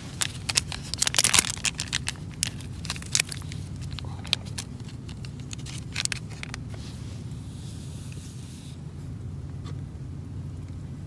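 Crinkling, tearing and scraping of something being handled, with sharp clicks and crackles that are dense for the first few seconds and then thin out, over a steady low hum.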